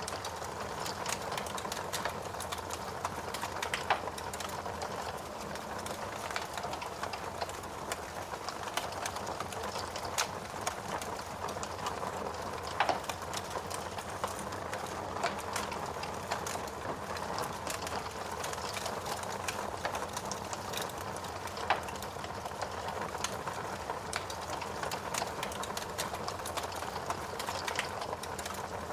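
Wood fire crackling with irregular small snaps and a few louder pops, over a steady hiss of rain.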